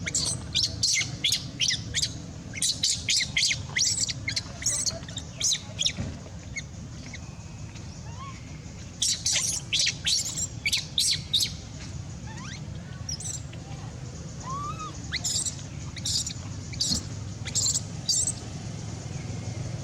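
Shrill, high-pitched animal chirps and squeaks in rapid runs of several a second, coming in bouts with short pauses between, over a steady low hum.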